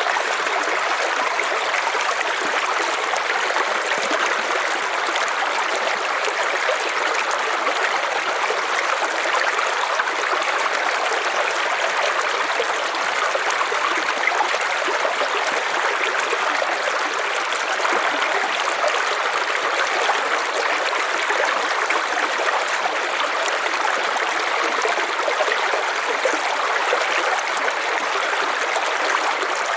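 River water flowing steadily, an even rushing and trickling.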